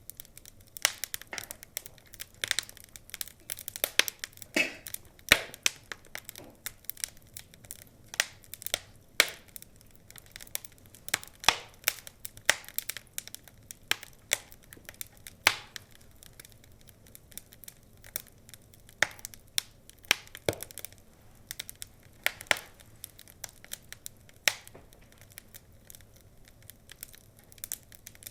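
Log fire crackling: irregular sharp pops and snaps of burning wood, some in quick clusters, others a second or more apart.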